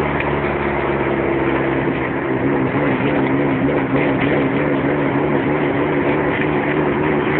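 1989 Toyota Corolla GT-S twin-cam four-cylinder engine running steadily while driving, its pitch holding nearly constant.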